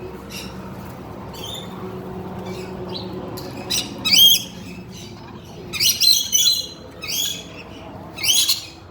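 Birds squawking: a run of harsh, shrill screeches that come in short bursts, mostly in the second half.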